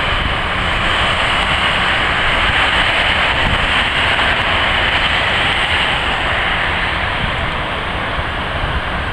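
Jet airliner engines at takeoff power: a loud, steady rushing noise that swells slightly partway through, with wind buffeting the microphone.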